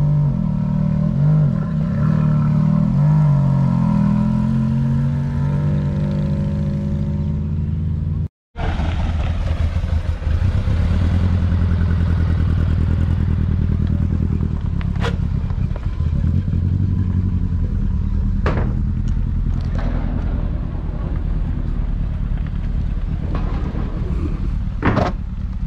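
A Ferrari F430 Spider's V8 revs up and down as it drives off. After a cut, a vintage open two-seater's engine runs with a steady low note, broken by a few sharp clicks, and near the end a BMW E30 M3 pulls up.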